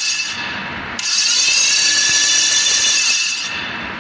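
A power tool running with a high whine and hiss, stepping up to full speed about a second in and dropping back near the end.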